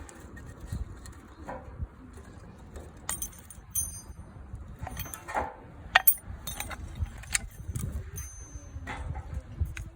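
Scattered sharp clicks and metallic clinks, several of them ringing briefly, over low rumbling handling noise.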